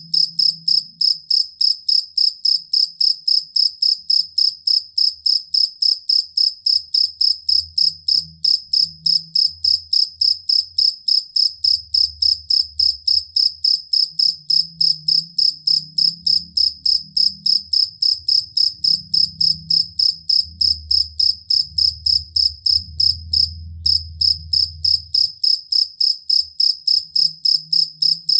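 A two-spotted field cricket (jangkrik kalung) chirping in an even, unbroken rhythm of loud, high pulses, about three to four a second, with one short break near the end.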